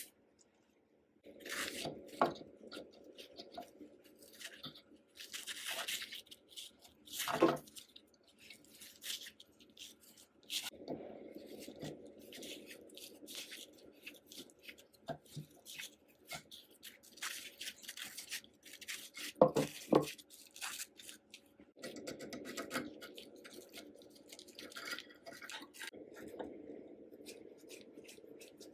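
Hand work on the parts of an old sewing machine: repeated stretches of scraping and brushing, broken by sharp clicks and knocks, the loudest about seven seconds in and again around twenty seconds in.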